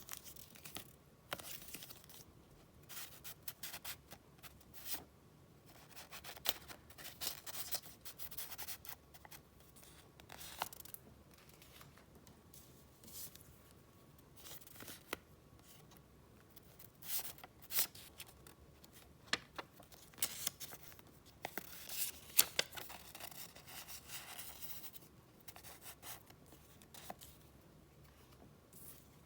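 Paper and paper goods being handled close to the microphone: soft, irregular rustling and crinkling with small taps and clicks, and a longer, denser rustle about twenty seconds in.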